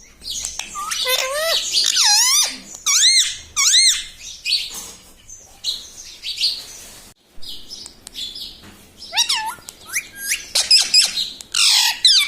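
Indian ringneck parakeet calling: a run of short whistled notes that rise and fall, mixed with harsher squawks, with brief pauses between them.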